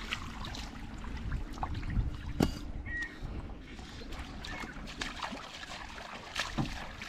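Water trickling and lapping around a canoe at the shore, with scattered knocks and bumps, the sharpest about two seconds in.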